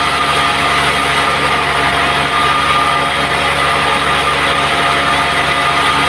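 Band sawmill running steadily: a constant machine drone with a steady high whine and no change in load.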